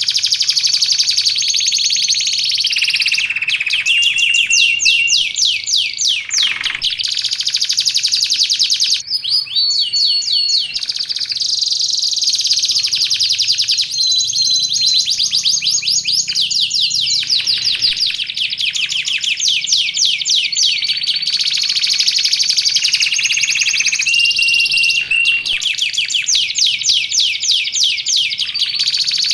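Canary singing without pause: long fast trills and rapid rolling notes, broken by short held whistles.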